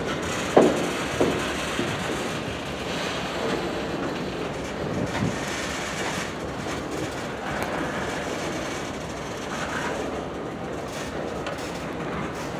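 Freight train cars rolling past: a steady rumble of steel wheels on rail, with a few sharp clanks, the loudest about half a second in.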